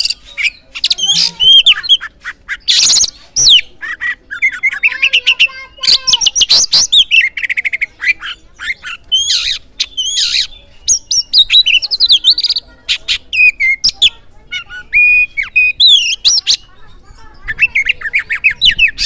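Oriental magpie-robin (kacer) singing a loud, varied song of quick whistled phrases and slurred notes, broken every few seconds by short harsh rasping bursts.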